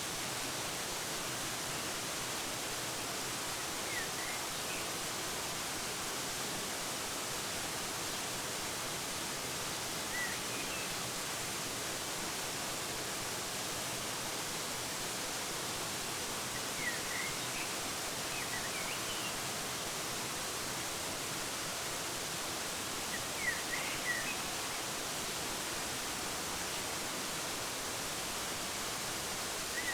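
Steady rushing of a waterfall, with short bird chirps now and then, a few of them coming in quick clusters.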